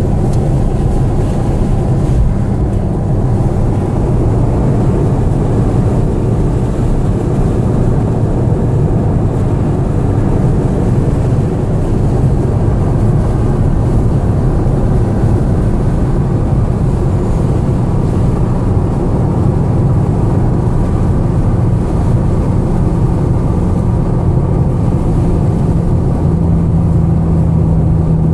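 Steady in-cabin drone of a tuned VW Mk5 GTI's turbocharged 2.0-litre four-cylinder cruising on the highway, over tyre and road noise. The engine note shifts in pitch a couple of times.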